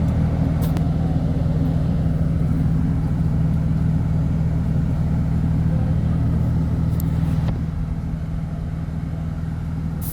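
Steady low engine drone of a moving road vehicle, heard from inside, dropping slightly in level about seven and a half seconds in.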